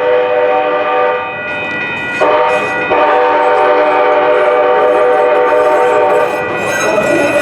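Train horn sounding a chord of several notes: one long blast ends about a second in, and a second long blast starts about two seconds in and is held for about four seconds, over the steady noise of the train on the tracks.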